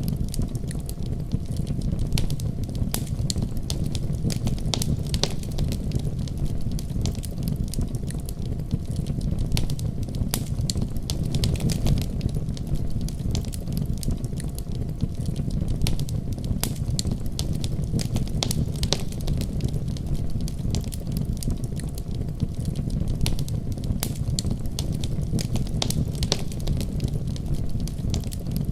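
Wood fire crackling, with many irregular sharp pops and snaps, over the steady low rumble of a winter storm.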